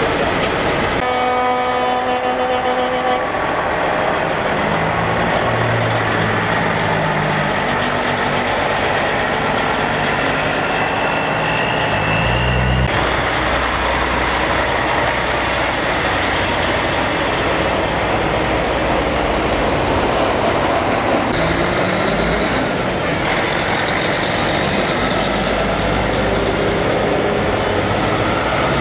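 Heavy trucks' diesel engines running past in a steady din, with a single truck air horn blast about a second in lasting roughly two seconds. Engine pitch rises and falls as the trucks pull away.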